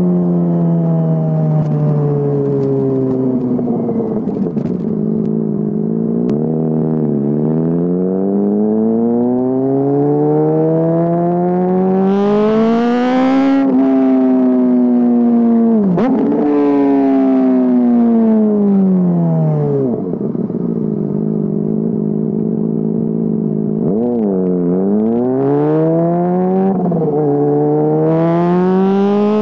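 Honda CBR600RR inline-four engine through a GPR Deeptone aftermarket exhaust, revved repeatedly. The pitch climbs slowly to high revs and drops back sharply, settles to idle between quick throttle blips, and climbs again near the end.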